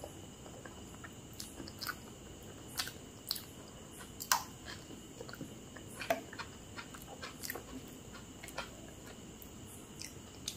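A person chewing food close to the microphone: irregular wet mouth clicks and smacks, a few of them sharper and louder.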